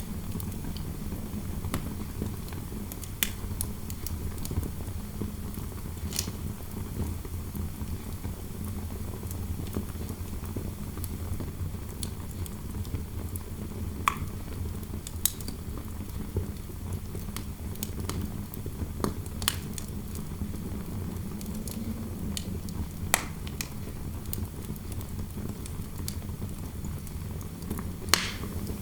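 Wood fire crackling, with sharp irregular pops every few seconds, over a steady low rumble of wind noise.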